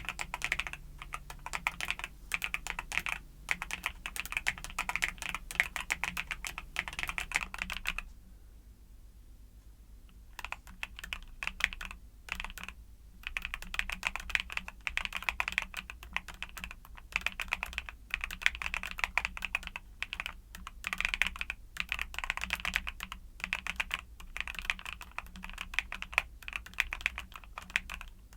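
Fast, continuous typing on a mechanical keyboard with YUNZII Cocoa Cream switches, a dense run of key clicks. It stops for about two seconds around the 8-second mark and briefly slows again a few seconds later.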